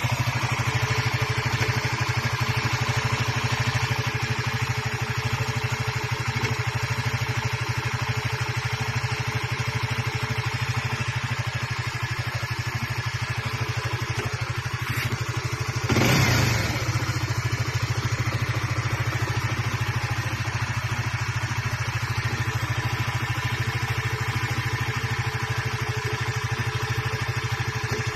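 Engine idling steadily, with a brief louder burst about sixteen seconds in.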